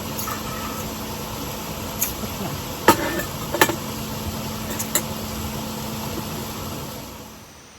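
A steady mechanical hum holding one low tone, with a few sharp clicks and knocks over it, fading away near the end.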